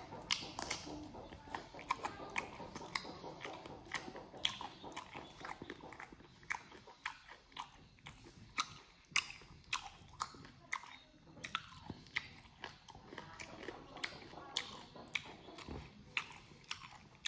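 A person chewing a cooked chicken foot, with wet mouth smacks and crunching. The sound is a dense run of sharp, irregular clicks, several a second.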